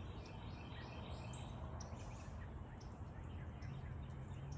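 Birds chirping in short repeated calls over a steady low outdoor rumble.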